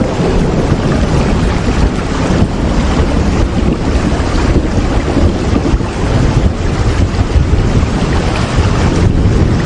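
Steady rain: a dense, even rush of noise with a deep rumble underneath.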